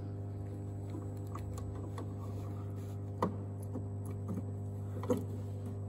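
Scattered light plastic clicks and taps as a xenon headlight bulb is handled and fitted into a motorcycle headlight housing, the two clearest about three and five seconds in, over a steady low hum.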